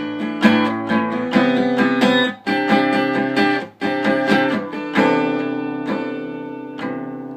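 Acoustic guitar strumming chords in a song's instrumental passage, with no voice. About five seconds in, the last chord is left ringing and slowly dies away.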